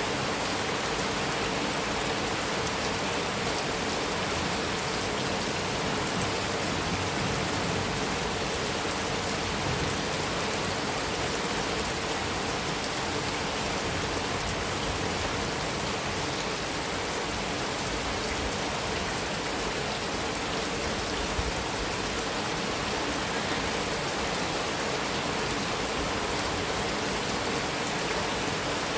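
Heavy rain falling steadily on a metal roof, an even hiss of drops with no thunder.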